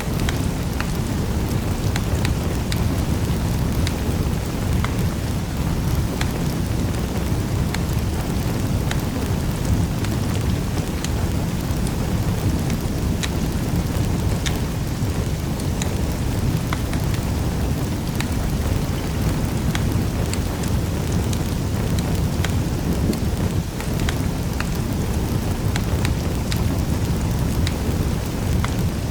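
Wood fire burning in a fireplace: a steady low rumble with many small, sharp crackles and pops scattered through it.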